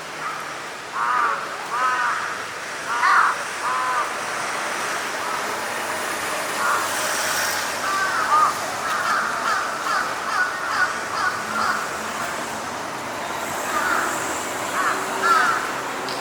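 Crows cawing repeatedly over steady background noise: a few separate caws in the first seconds, a quicker run of calls in the middle, and more near the end.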